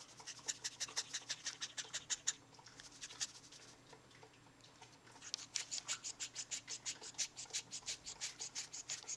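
Cockatiel making a rapid, rhythmic raspy scratching sound, its imitation of a tea bag being shaken, at about eight strokes a second. There are two runs, with a pause of a couple of seconds between them.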